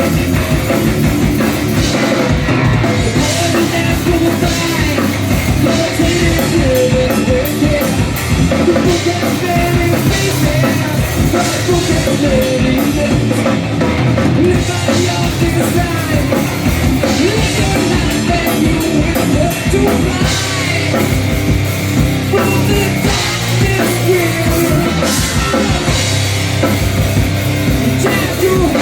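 Heavy rock band playing live, loud, with a pounding drum kit.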